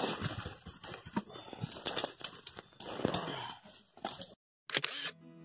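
Irregular rustling with sharp clicks and knocks, cut off by a short gap of silence near the end.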